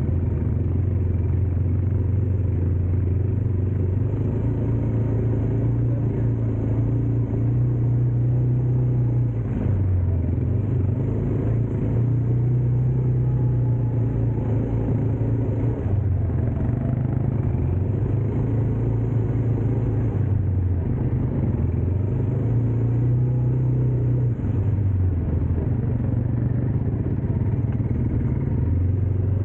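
Dirt bike engine running steadily over rough ground. Its note shifts up and down every few seconds as the throttle changes.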